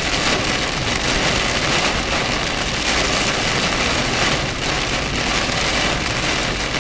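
Heavy rain hitting a moving car's roof and windshield, a steady loud hiss mixed with road noise, heard from inside the cabin during a thunderstorm downpour.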